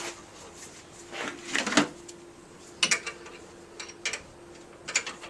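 Work on tensioning a Citroen Ami 6's fan belt with a piece of wood as a lever: a scraping rattle about a second in, then a few sharp clicks and knocks of wood and metal.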